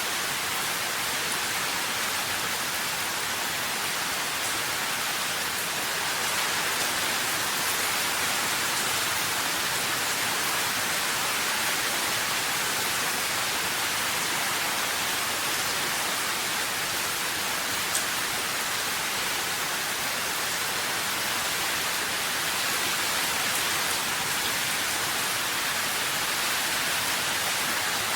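Steady rain hiss with a few faint drop ticks, such as one about eighteen seconds in.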